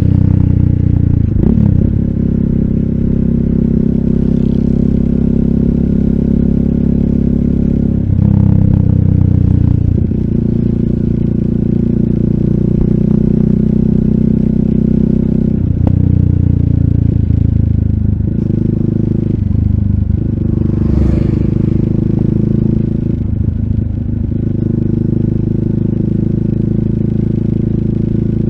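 A RUSI Classic 250Fi motorcycle engine running under way through an aftermarket full exhaust with a bullet-style slip-on muffler. The deep, even note breaks off briefly several times and picks up again at a changed pitch.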